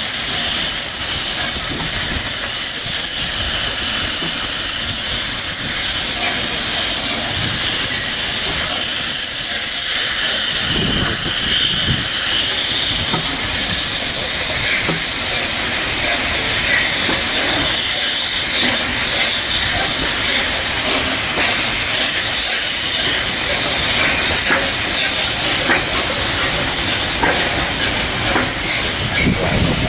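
LNER Peppercorn A1 Pacific steam locomotive 60163 Tornado letting off steam: a steady, loud hiss, with a few low thuds about eleven seconds in and again near the end.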